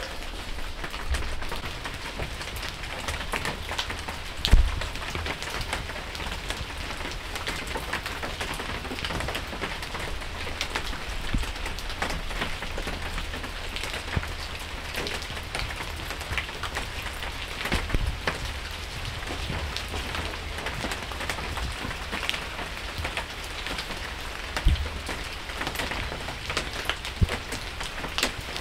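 Steady rain falling on hard surfaces, full of small scattered drop ticks, with a few louder dull thumps about 4.5, 18 and 25 seconds in.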